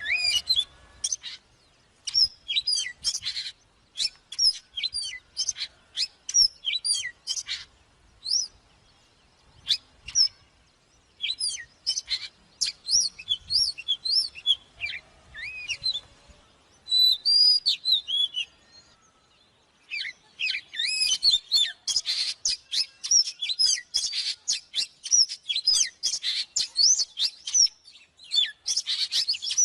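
Oriental magpie-robin singing: bursts of varied, sweeping whistled phrases separated by short pauses, becoming a dense, nearly unbroken run of song in the last third.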